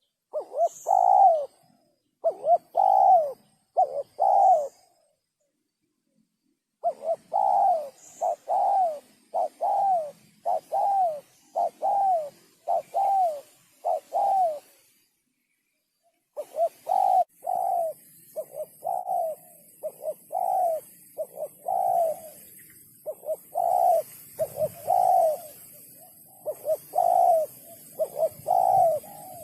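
Spotted dove cooing, the deep 'sấm' voice type prized by Vietnamese dove keepers. Short coos repeat in runs of about one to two a second, broken by two pauses of a couple of seconds.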